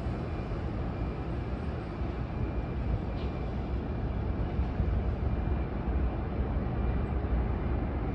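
Steady low rumble of an electric freight locomotive running away down the line, mixed with city background noise, with no clear wheel clicks.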